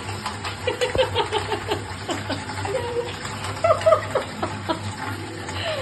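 Soft chuckling laughter in short runs, with scattered clinks of dishes being washed at a sink.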